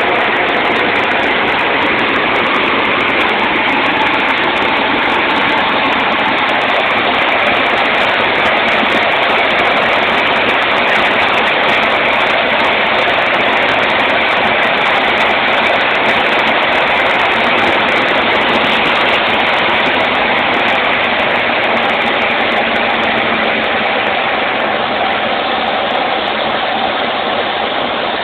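Cessna 150's Continental O-200 four-cylinder engine and propeller running steadily on the landing approach, a loud dense drone that eases off slightly near the end.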